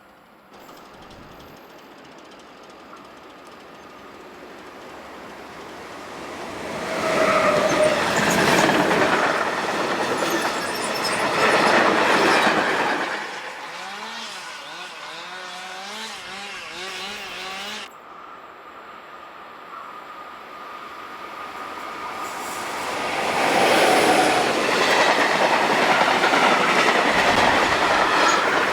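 Loud rushing, rumbling noise that builds, peaks and fades, then builds again near the end. Between the two swells a wavering pitched tone sounds for a few seconds, and the sound changes abruptly about two-thirds of the way in.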